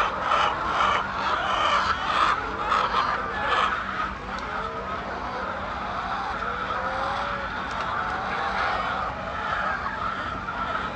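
Continuous din of a large flock of chickens calling together, with a few single drawn-out calls rising above it in the middle and a faint steady low hum underneath.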